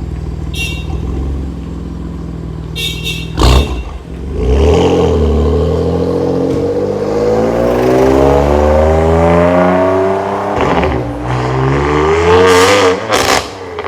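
BMW M4's twin-turbo straight-six running through a large aftermarket exhaust: a steady idle, a sharp rev blip about three and a half seconds in, then the exhaust note climbing steadily in pitch for several seconds under acceleration. It dips briefly, then two more quick, loud revs come near the end.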